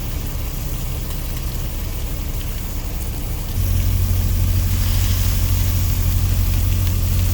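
Semi truck's diesel engine idling, a steady low rumble that steps up louder about three and a half seconds in, over a faint hiss of food sizzling on the grill.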